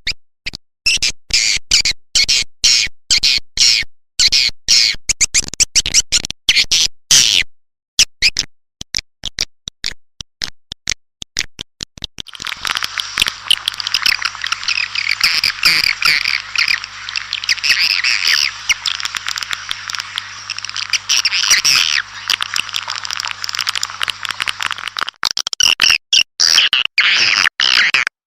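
Recorded calls of swiftlets (walet) used as a lure sound for swiftlet houses. First come rapid, choppy high chirps; about halfway in they thicken into a dense chorus of many overlapping birds, with a faint low hum under it. Near the end the chorus thins back to separate chirps.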